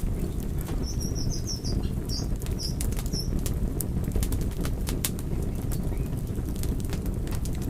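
Wood fire burning with a steady low roar and frequent sharp crackles and pops. A few short high squeaks sound between about one and three seconds in.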